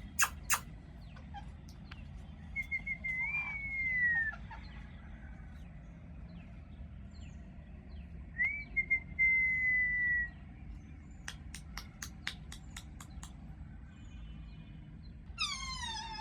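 A parrot whistling. A few short notes lead into a long falling whistle, and a second long whistle drops slightly in pitch. Later there is a quick run of sharp clicks, and near the end a harsh squawk that falls in pitch.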